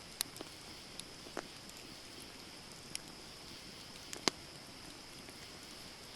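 Campfire of burning wood crackling: sharp, irregular pops, the loudest about four seconds in, over a steady high hiss.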